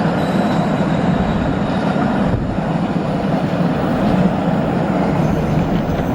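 Train running past on the line: a steady, loud rumble of wheels on the rails that holds without a break.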